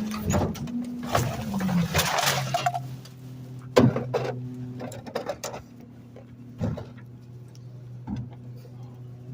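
Garbage truck diesel engine held at a raised speed, then dropping to a low idle about one and a half seconds in, with scattered clanks and knocks, a short hiss around two seconds and a sharp knock near four seconds.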